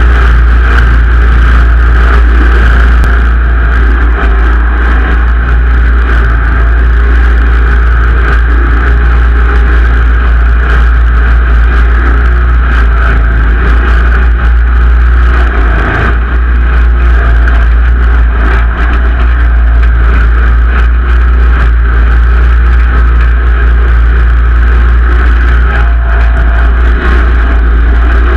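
Simplicity Legacy XL garden tractor's engine running steadily under load, a loud continuous rumble without break.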